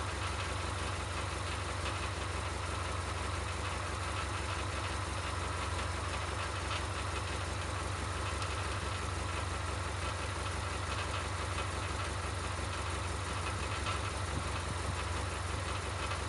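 Car engine idling steadily, a low even hum with no crunches or other sudden sounds.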